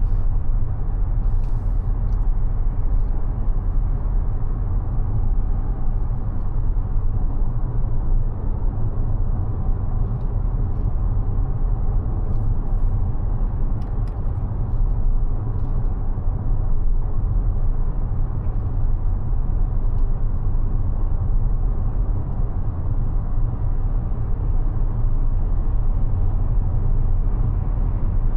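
Mazda 6e electric sedan on the move: a steady low rumble of road and tyre noise with no engine note.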